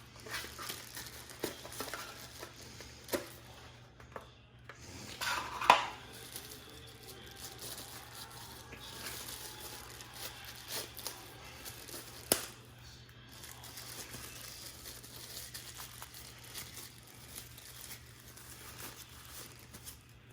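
Packaging being handled during an unboxing: plastic and paper crinkling and tearing, with scattered clicks and taps. There is a louder crinkling burst about five to six seconds in and a sharp click near twelve seconds.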